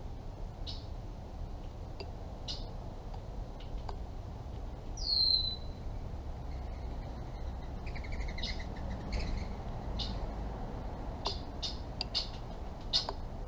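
Backyard birds chirping with short calls scattered throughout. About five seconds in there is one loud whistled call that falls in pitch, and around eight seconds a short rapid trill.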